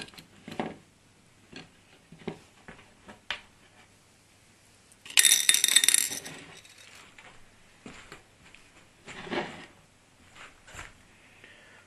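Small metal parts clinking and clattering on a workbench while an LED floodlight is taken apart, with scattered light clicks and knocks. The loudest is a ringing metallic jingle about five seconds in lasting over a second, and a duller knock follows near nine seconds.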